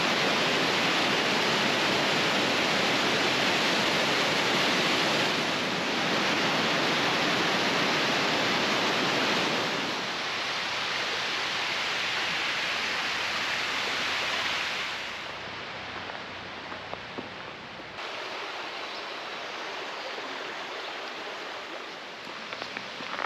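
Steady rush of falling water from a waterfall on a mountain creek. It drops to a quieter level about ten seconds in and again about fifteen seconds in, then runs on more softly with a few faint ticks.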